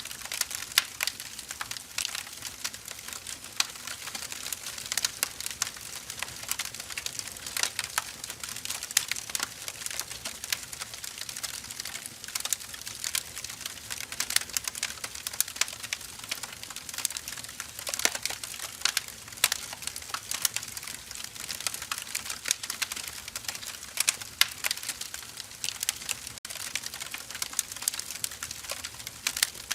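Firewood burning with steady crackling and frequent sharp, irregular pops.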